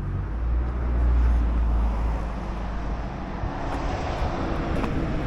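Outdoor motor-vehicle rumble: a deep engine-like rumble swells about a second in and then eases, leaving a steadier low engine hum over background noise.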